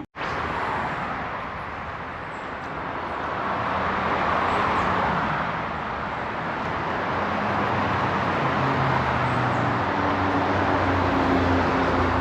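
Road traffic: a vehicle's engine hum and tyre noise swelling and fading, with a low engine tone getting stronger in the second half.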